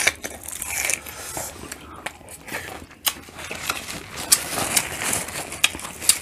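Close-miked eating: biting and chewing crisp romaine lettuce dipped in sauce, with many scattered sharp clicks and crackles.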